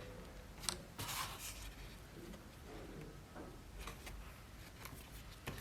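Faint workshop handling sounds: a sharp click, a short scrape or rustle, then scattered light clicks and rustling.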